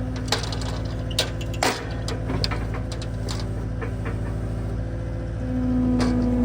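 Skid steer engine running steadily, with a humming tone that fades out near the start and returns louder about five and a half seconds in, and several sharp metal clanks and knocks.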